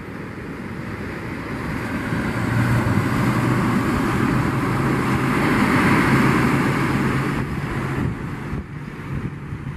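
Outboard motors of a ski-boat running under power as it heads out through the surf. The engine tone comes in about two seconds in, is loudest in the middle and fades near the end, over the hiss of surf and wind on the microphone.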